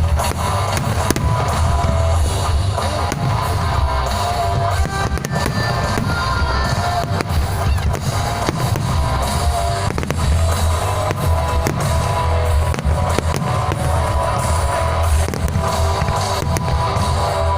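Loud music with a heavy low end, mixed with many fireworks bangs and crackles going off throughout.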